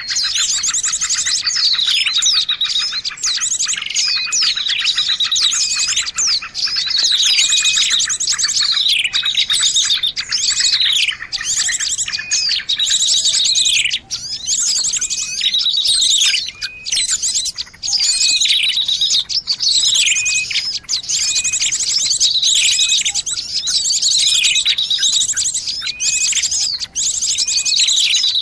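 Bird-lure recording of many small songbirds calling at once: overlapping rapid high trills and chirps, with falling whistled notes coming back every couple of seconds.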